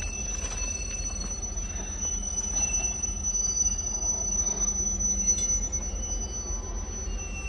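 Freight train rolling slowly over the rails: a low, steady rumble with a thin, steady high-pitched squeal above it, growing a little louder in the middle.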